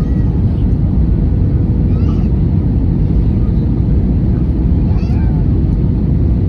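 Airliner cabin noise: a loud, steady low rumble of engines and airflow with a faint steady hum. Twice, a few seconds apart, there are faint brief high-pitched voice-like cries.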